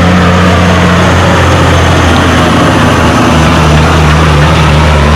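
Kenworth semi truck's diesel engine running hard under full load as it pulls the sled down the track. The engine note holds steady, then drops a little about three seconds in.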